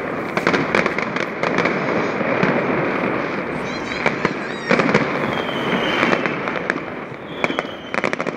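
Fireworks display: a dense, continuous crackle of many bursts with sharper bangs scattered throughout, and faint high whistles gliding downward a few seconds in.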